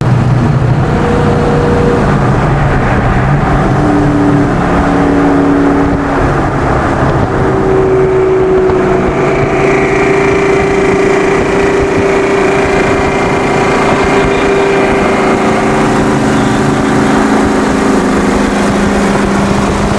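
Modified Ford Mustang Cobra V8 running hard at full throttle, loud and continuous, with engine notes that step up in pitch early on and a higher whine holding through the middle.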